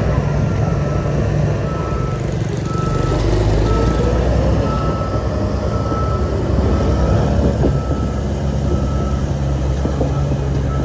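Reversing alarm on a piece of earthmoving equipment, a single-pitch beep repeating about once a second over the steady drone of a diesel engine running.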